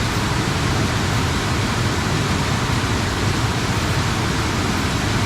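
Fast-flowing water rushing steadily, swollen after rain.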